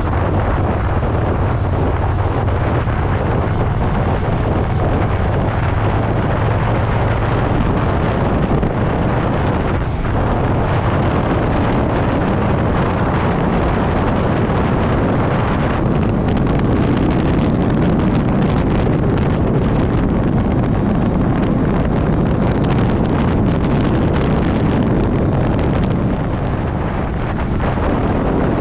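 Motorcycle riding along at road speed, its engine running under heavy wind rush on the microphone, a little louder in the middle stretch.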